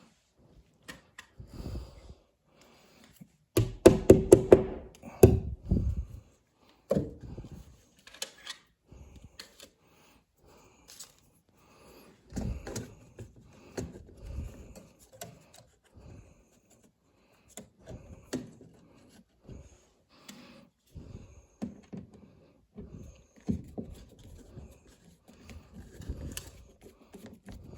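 Scattered clicks, taps and knocks from hand work mounting a thermostat, with a quick run of about five loud, sharp knocks around four seconds in.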